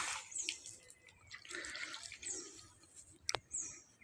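Light splashing and dripping of pond water as a hooked catla is grabbed at by hand, with a sharp click about three seconds in.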